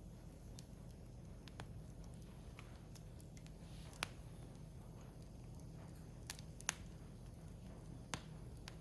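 Firewood burning in a Picogrill fire pit, crackling with scattered sharp pops, the loudest about four seconds in and a close pair a little past the middle, over a low steady hum.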